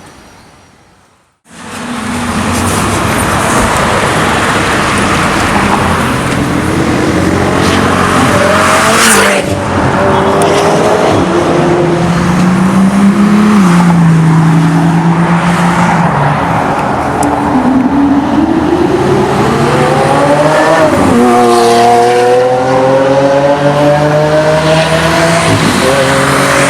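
High-performance car engine revving hard and accelerating, starting abruptly about a second and a half in. Its pitch climbs and falls repeatedly, with a sharp drop about 21 seconds in like a gear change, then climbs again.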